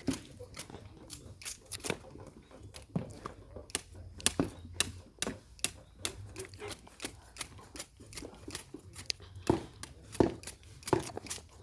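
A string of irregular clicks and taps, a few every second, with several louder knocks among them.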